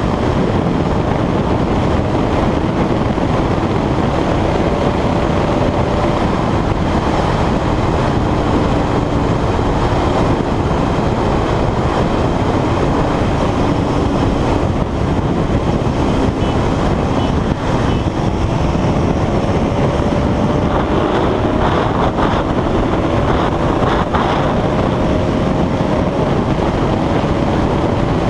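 Heavy wind buffeting the microphone of a single-cylinder 200 cc motorcycle at speed, with the engine's note faint underneath and rising slowly in pitch in the last third.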